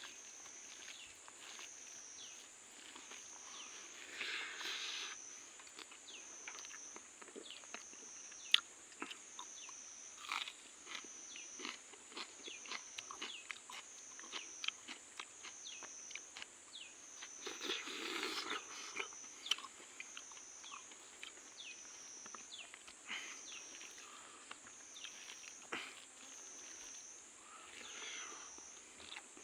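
Close-up eating sounds: chewing, mouth smacks and small crunches of fried magur fish with rice, as many short sharp clicks. Behind them a steady high insect chorus pulses about once a second.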